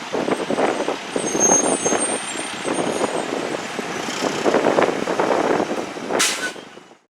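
Fire engine and ambulance running at a crash scene, with uneven engine and road noise and a short, sharp hiss about six seconds in, like an air brake being set.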